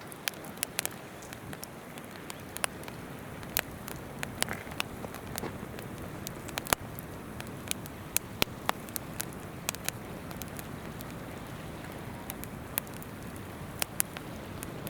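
Wood campfire crackling, with sharp, irregular pops over the steady rush of a flowing river.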